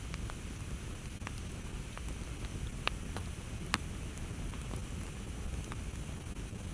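Campfire burning: a steady low rush with scattered sharp crackles and pops from the burning wood, two of them louder near the middle.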